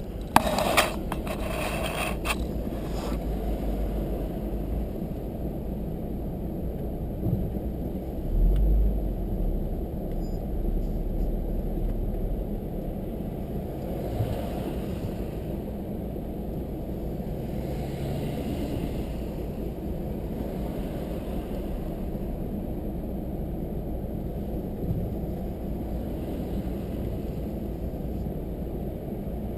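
A car driving with steady low road and engine noise, with a few clicks in the first seconds and a heavier low rumble about a third of the way in.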